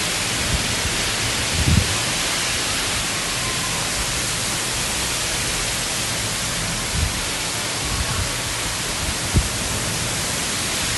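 Heavy rain in a storm wind, a steady hiss, with a few brief low thumps now and then.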